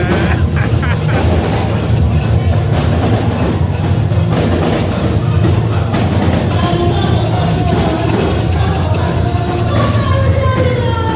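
Live church praise music with a band: drum kit and bass, with singing coming in about halfway through.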